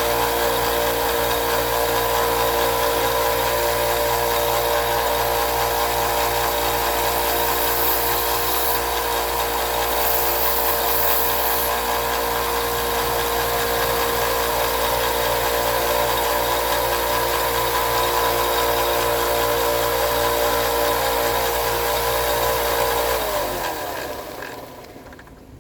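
Electric grinder running steadily as the top of a pocketknife blade is ground down in a few passes. Near the end it is switched off and its pitch falls as it winds down.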